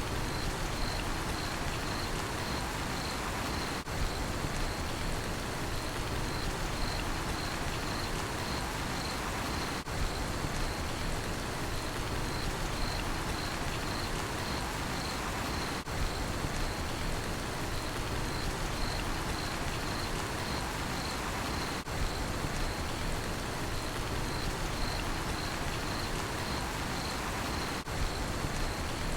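Steady rain hissing on a surface, with a cricket chirping in a fast, even pulse over it. The hiss dips briefly about every six seconds.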